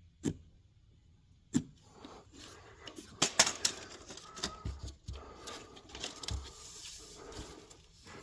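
Two sharp knocks, one near the start and one about a second and a half in. Then a busy run of clicks, scrapes and rustling with a couple of low thumps.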